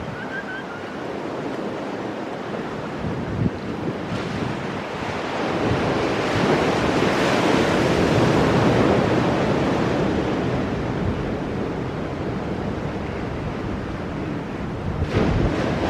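Ocean surf breaking on rocks: the wash swells to its loudest about halfway through and recedes, and another wave crashes in near the end.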